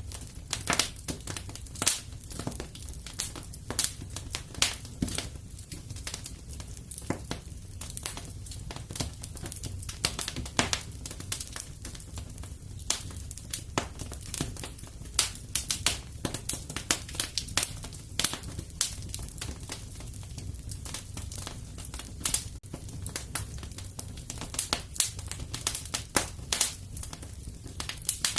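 Fireplace fire crackling: irregular sharp pops and snaps, some louder than others, over a steady low rumble.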